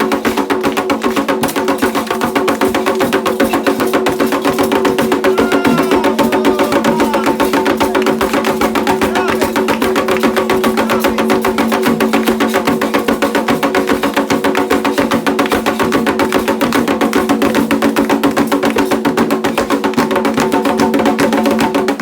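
Candomblé ritual music: hand drums and a bell-like wood-block timekeeper beating a fast, steady rhythm, with voices singing together over it without a break.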